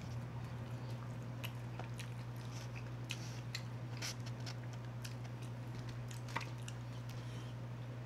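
Close-miked chewing of bone-in chicken wings: soft wet mouth sounds with scattered small clicks and smacks. A steady low hum runs underneath.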